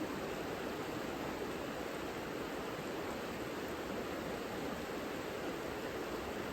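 The Savica river flowing: a steady, even rush of water that never changes, fullest in its lower middle range.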